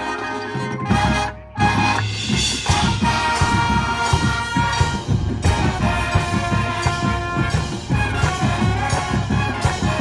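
Marching showband playing brass over drums. There is a short break about a second in, then the full band comes back in.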